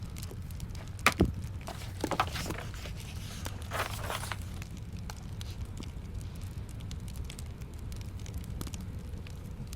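Wood fire in a fireplace crackling over a low steady rumble, with a few louder snaps and a brief rustle between about one and four seconds in.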